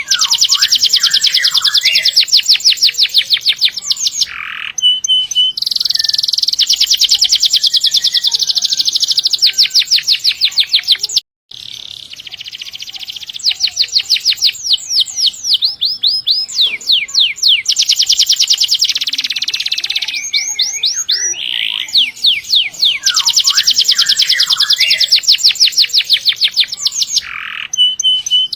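Domestic canary singing long rolling trills: very fast runs of repeated high notes, phrase after phrase with short breaks between. The song cuts out abruptly for a moment about eleven seconds in.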